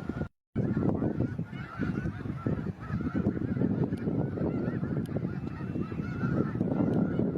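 A large flock of migrating geese honking, many calls overlapping continuously over a steady low rumble. The sound drops out for a moment near the start.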